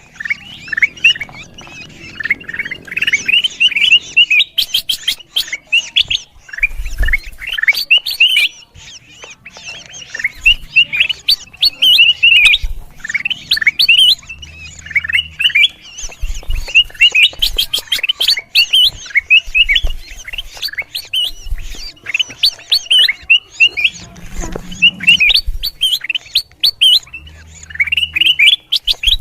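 Kutilang emas bulbul calling noisily: rapid, busy strings of short chirping and squawky notes, repeated in phrases. This is the kind of agitated call used as a lure and training recording for the species.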